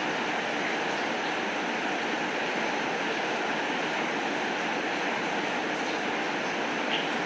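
Steady, even rainfall, with one faint click shortly before the end.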